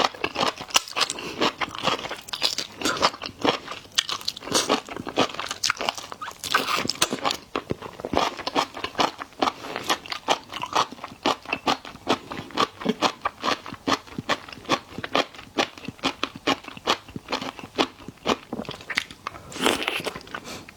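Close-miked chewing and biting of scallop, a dense stream of sharp, wet crunchy clicks.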